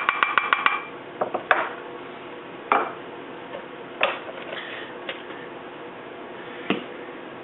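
A measuring spoon tapped quickly against a small bowl to knock out paprika: ringing clinks, about seven a second, that stop about a second in. A few separate clinks and knocks of spoon and containers being handled follow.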